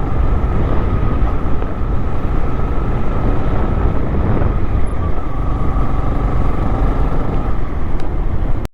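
Motorcycle engine running on the move, with heavy wind rumble on the microphone. The sound cuts off suddenly near the end.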